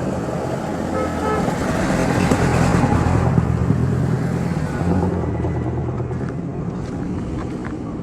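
A motor vehicle passes close by, its engine and road noise rising to a peak a few seconds in and then fading away, with a short horn toot about a second in.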